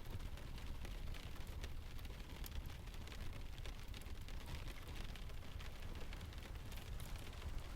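Mixed rain and sea ambience: steady rain hiss over a low rumble of surf, with many scattered small clicks throughout.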